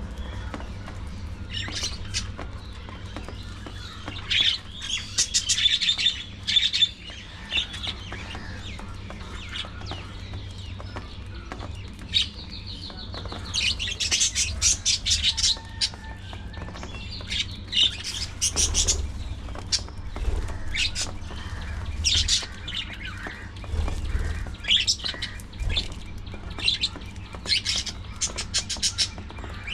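A flock of budgerigars chattering, in bursts of rapid high-pitched chirps and warbles with short lulls between them, over a steady low hum.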